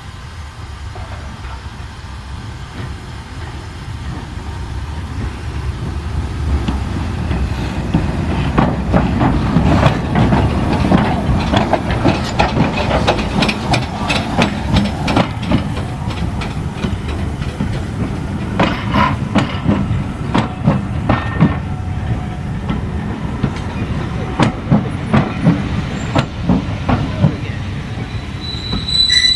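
A train's wheels clattering over rail joints on a heritage railway. The sound grows louder over the first several seconds, then keeps up a long, uneven run of clicks and knocks.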